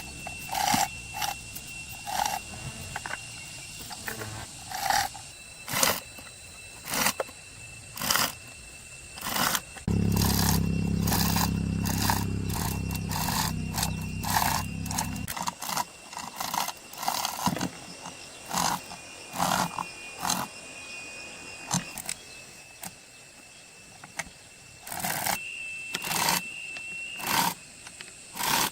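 Repeated sharp knocks, roughly one a second. A motor runs steadily for about five seconds partway through and cuts off suddenly.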